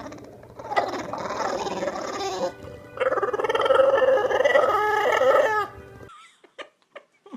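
A dog howling in two long stretches, each about two seconds, over background music that cuts off about six seconds in.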